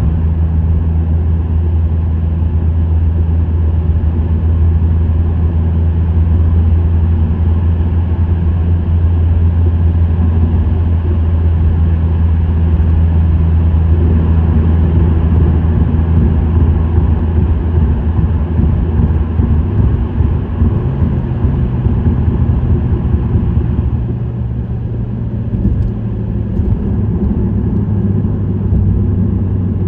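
Subaru WRX STI's turbocharged EJ20 flat-four and STI Performance muffler exhaust, droning steadily while the car drives on an expressway. The engine note shifts pitch a little about halfway through, then eases off and quietens briefly about three-quarters of the way in.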